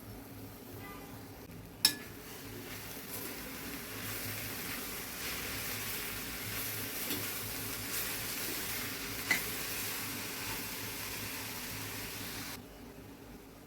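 Tindora (ivy gourd) sabji sizzling in a pan while being stirred, with a sharp clack of the utensil against the pan about two seconds in and another around nine seconds. The sizzle stops abruptly near the end.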